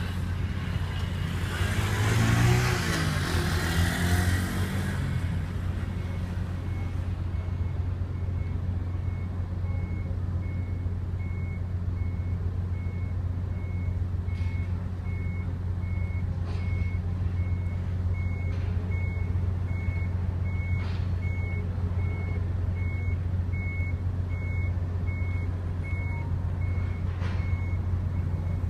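Steady low engine hum, with a loud rush of noise that swells and fades in the first few seconds. From about ten seconds in, an electronic warning beep repeats roughly once every 0.7 seconds.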